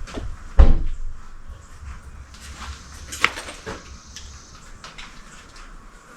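A heavy thump about half a second in, followed by several lighter knocks and clicks, the sharpest a little after three seconds.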